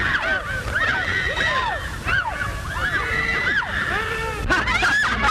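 A man yelping and howling, a quick string of high rising-and-falling cries, over the steady low hum of an old film soundtrack.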